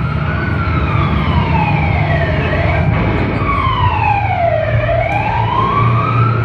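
A siren wailing, its pitch gliding slowly down and then back up, over a steady low rumble.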